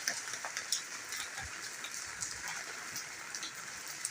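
Rain falling steadily: an even hiss with scattered sharper taps of drops striking nearby surfaces.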